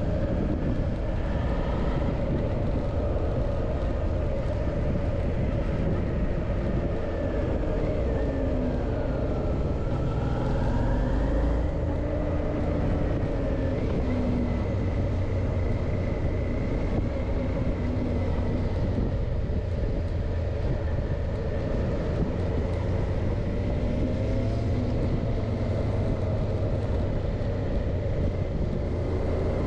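Suzuki V-Strom 650's V-twin engine running while riding, its pitch rising and falling with the throttle, over a steady low rumble of wind noise.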